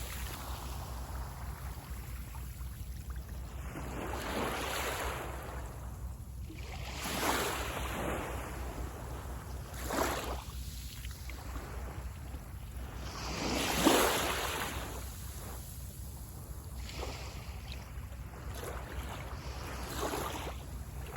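Sea waves breaking on a beach: about five rushes of surf swell up and die away at uneven intervals, the biggest about two-thirds of the way through. A steady low rumble runs underneath.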